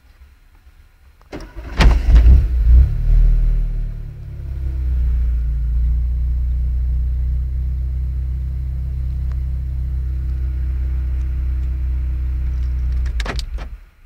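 Car engine cranked by its starter and catching about a second and a half in, revving briefly, then settling to a steady idle. It cuts off suddenly near the end.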